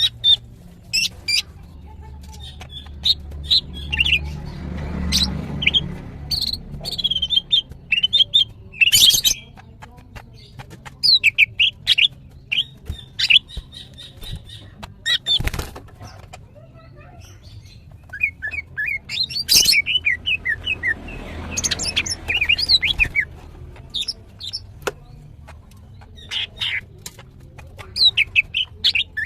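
Female green leafbird (cucak ijo) singing in an excited, nonstop run of short high chirps and fast chattering trills with brief pauses between phrases. A low rumble rises under the song twice.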